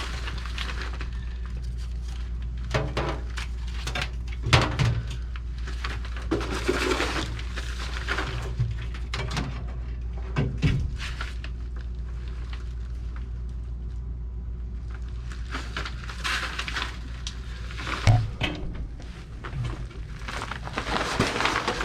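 Scattered knocks, clinks and rustles of tools and parts being handled, with a sharper knock about four seconds in and another near the end, over a steady low hum.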